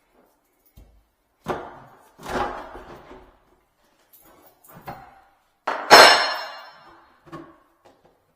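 Five irregular knocks and bangs of work on the sink fitting, the loudest about six seconds in with a short metallic ring.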